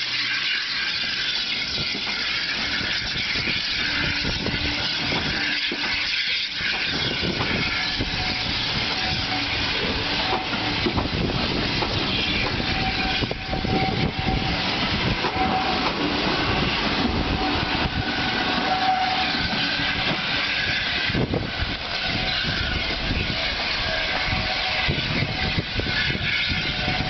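Flat wagons and then passenger coaches of a steam-hauled train rolling past close by, the steel wheels rumbling and clattering over the rails. Thin, on-and-off squealing tones come in from about ten seconds in as the train runs onto the curve.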